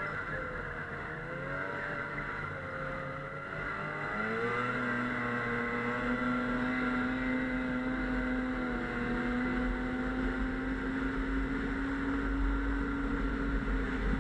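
Snowmobile engine running, its pitch wavering up and down, then rising about four seconds in and holding steady at higher revs as it gets a little louder.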